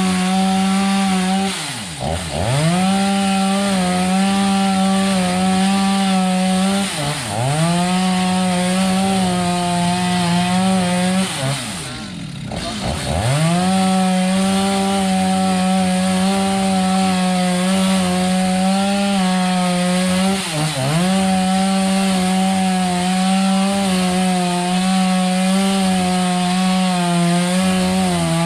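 A chainsaw running at high revs, cutting up a fallen tree. Its steady whine drops sharply in pitch and comes back about four times, most deeply near the middle.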